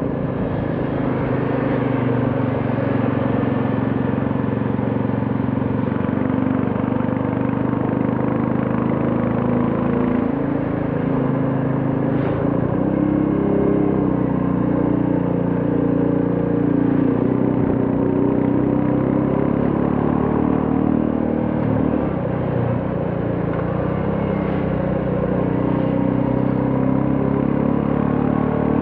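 Royal Enfield Classic 350's single-cylinder engine running steadily on the road while being ridden, with road noise underneath. Its pitch eases and picks up slightly a couple of times with the throttle.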